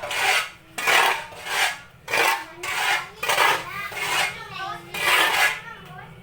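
Repeated scraping strokes of a metal tool working through the sawdust mushroom-substrate mixture, about one and a half strokes a second in an even rhythm.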